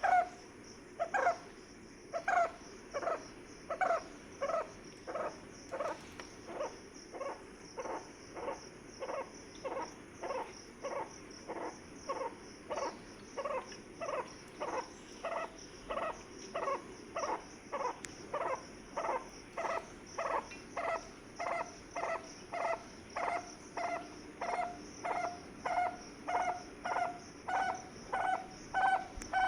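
A bird repeating one short, hollow note over and over, about one and a half calls a second, with a steady high insect chirring underneath.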